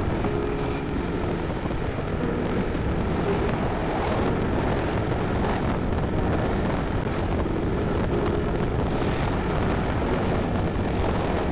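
Yamaha Tricity 155 three-wheeled scooter under way: steady low wind rumble on the microphone mixed with engine and road noise.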